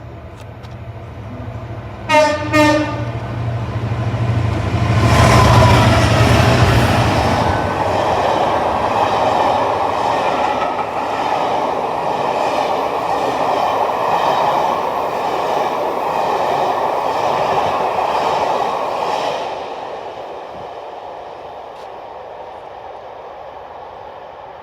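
A passing train sounds two short horn blasts about two seconds in, then goes by at speed with a loud rush of engine, wheel and rail noise that lasts about fifteen seconds before fading away.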